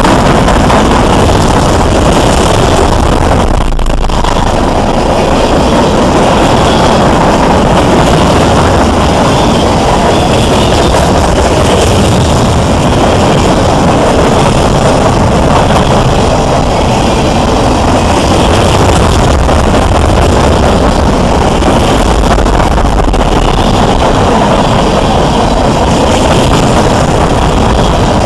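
Train rolling past close by: a loud, steady rumble of wheels on rail, with a faint higher swell about every two seconds.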